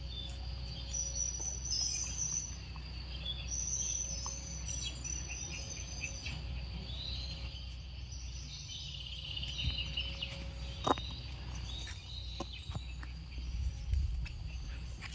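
Small birds chirping in short high phrases over a steady low outdoor rumble, with one sharp click about eleven seconds in.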